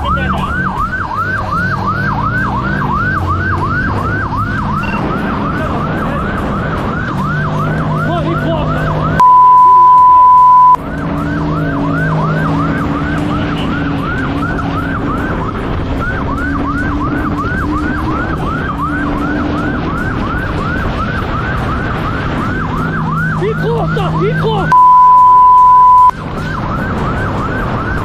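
Police car siren in rapid yelp mode, sweeping up and down about three times a second over the pursuing car's engine. Twice, about ten seconds in and again near the end, a loud steady one-pitch beep cuts over everything for about a second and a half.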